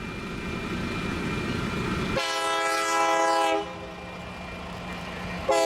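Diesel freight locomotive rumbling past, then sounding its multi-note air horn in a long blast about two seconds in. A short blast starts near the end.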